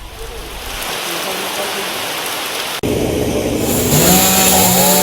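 A steady hiss of heavy rain, then after a cut about three seconds in, a small engine starts running with a wavering pitch.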